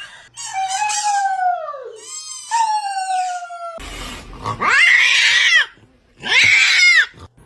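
A pet's vocal cries: two drawn-out calls falling in pitch, then two louder, shorter calls that rise and fall.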